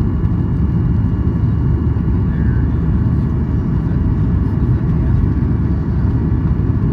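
Steady loud rumble of a Boeing 737-800's CFM56-7B engines and airflow heard inside the cabin, with faint steady whining tones above it.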